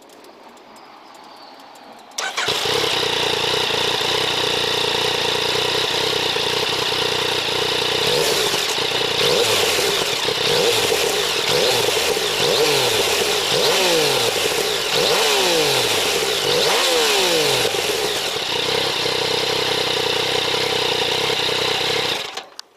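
Yamaha Tracer 900 GT's three-cylinder engine starting up about two seconds in and settling into a steady idle. Through the middle it is revved in a series of quick throttle blips, each rising and falling. It then drops back to idle and stops abruptly near the end.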